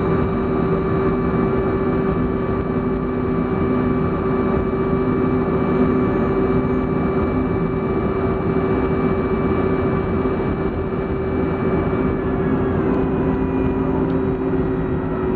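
Cabin noise of a Boeing 737-400 on the ground just after landing: a steady drone from its CFM56 turbofan engines and the airframe, with a constant hum and whine. About three-quarters of the way through, some of the higher engine tones step down in pitch as the engines wind down.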